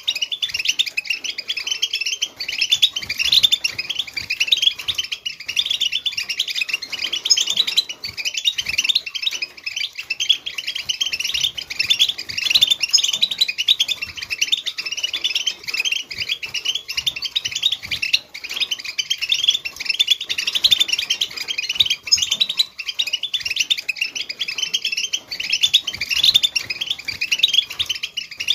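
A flock of European goldfinches twittering and singing together: a dense, unbroken chatter of high chirps and trills, many birds at once.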